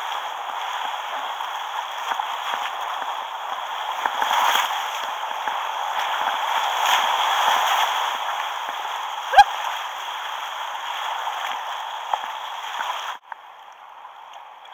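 River water rushing past a kayak on a whitewater run: a steady hiss and gurgle of moving water, with one short high chirp about nine seconds in. Near the end the water sound drops off abruptly to a much quieter, duller noise.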